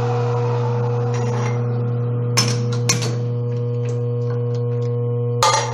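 Metal lathe running with a steady motor hum while facing off a small steel spacer; the cutting hiss dies away about a second in, then a few sharp metallic knocks, the loudest near the end.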